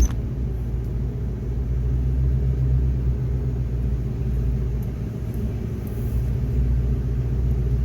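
Plow truck's engine running steadily under load, a constant low rumble while the truck pushes snow.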